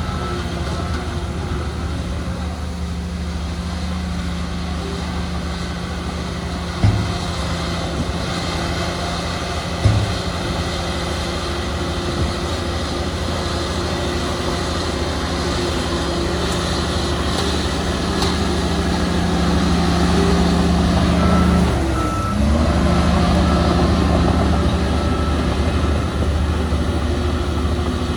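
Heavy diesel earthmoving machinery running steadily, with two sharp clunks a few seconds apart in the first half. A reversing alarm beeps in a steady pattern through the last quarter, as the engine note briefly dips and picks up again.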